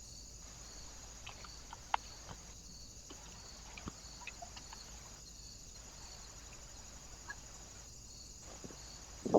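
Steady high hiss from the trail camera's own electronics, pulsing faintly about twice a second. A few light taps sound through it, and a louder quick clatter of knocks comes right at the end.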